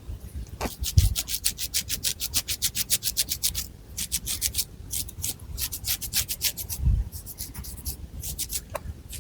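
Long fingernails scratching rapidly back and forth through long hair on the scalp, close up, at about seven strokes a second. There is a short break about three and a half seconds in, the strokes thin out near the end, and there are a couple of low dull bumps.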